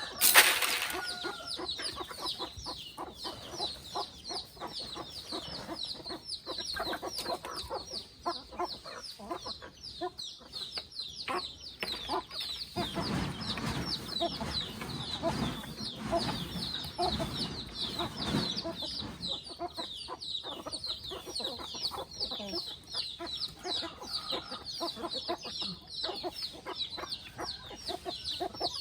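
Free-range chickens clucking, over a constant run of quick, high peeping calls several per second. A sharp knock sounds right at the start.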